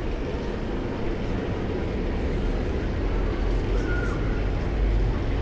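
Steady rushing noise with a deep rumble underneath, the running sound of a water-shooter boat ride, with a short faint tone near the middle.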